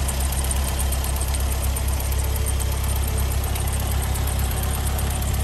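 Ford engine of a replica WW2 jeep, with a Weber carburettor conversion and exhaust headers, idling steadily and smoothly while warm.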